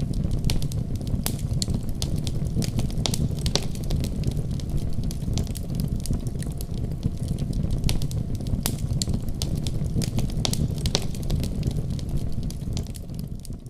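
Fireplace fire crackling, with many sharp irregular pops over a steady low rumble. It fades out near the end.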